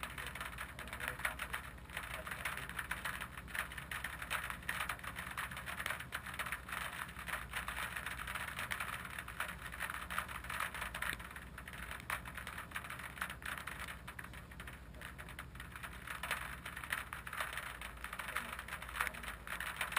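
Subaru Impreza rally car's engine idling steadily while stationary, with a dense crackling hiss over it on the microphone.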